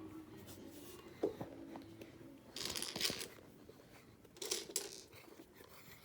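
Lego pieces being handled: a sharp click about a second in, then two short bursts of rustling.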